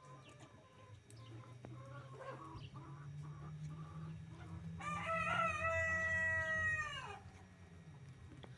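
A rooster crowing once, a long held crow about five seconds in that drops in pitch as it ends. Before it, hens cluck softly.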